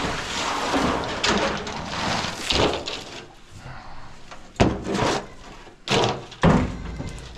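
Welded metal coop scraper scraping dried chicken droppings off a roosting shield, followed by a few sharp knocks about halfway through and near the end.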